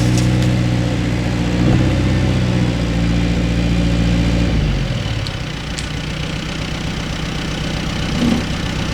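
A vehicle engine running at a steady speed, then slowing about five seconds in and settling to idle.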